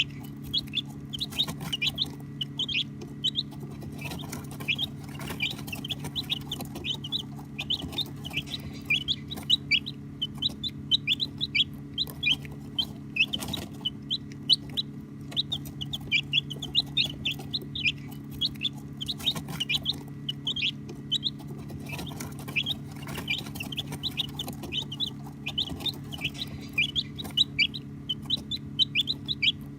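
A brood of baby chicks peeping without pause, with many short high chirps overlapping several times a second. A steady low hum runs underneath.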